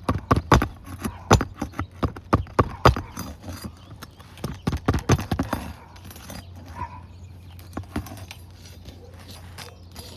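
Quick run of sharp taps and knocks from a hand tool working at asphalt shingles to free the old staples that fasten them, several a second, stopping about six seconds in; a low steady hum and a few faint knocks are left after.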